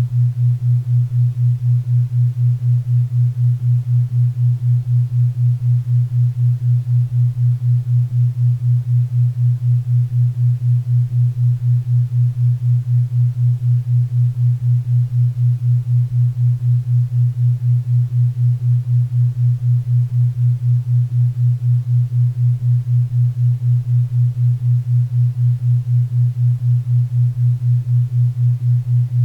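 A 4 Hz theta-wave brainwave-entrainment tone: a low hum that pulses evenly about four times a second, over a faint bed of pink and brown noise.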